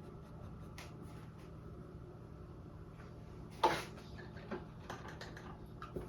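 One sharp knock about halfway through, then a few fainter taps and clicks, as painting tools are handled against hard surfaces.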